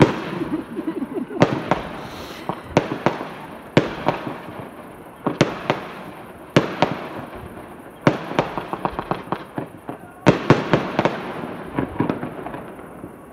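Private fireworks going off: sharp bangs every second or two, some single and some in quick clusters, each trailing an echo.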